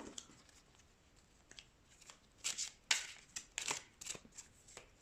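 A deck of oracle cards being shuffled by hand: a string of short papery card strokes at uneven intervals, starting about a second and a half in.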